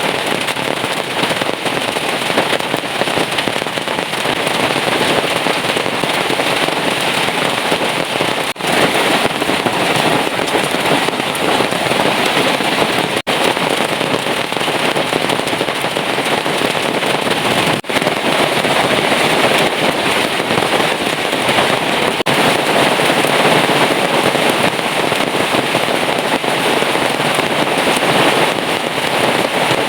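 Heavy rain pouring down in a dense, steady hiss, dipping out for an instant three times.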